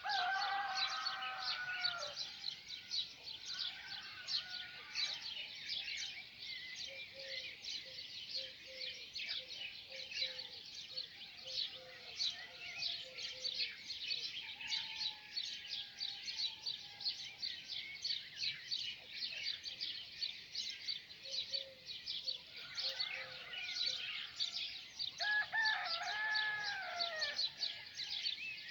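A dawn chorus of many small birds chirping rapidly and continuously, with a rooster crowing twice: once at the start and again near the end.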